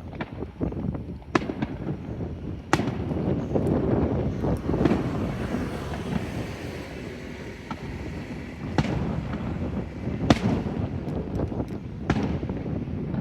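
Fireworks going off: a continuous dense crackle and popping, with about five sharp, loud bangs standing out over it, the loudest a little past the ten-second mark.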